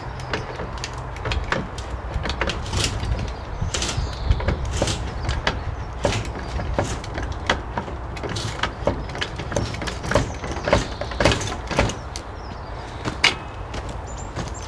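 Hydraulic jack being worked, with irregular sharp clicks and knocks, about one or two a second, over a steady low rumble.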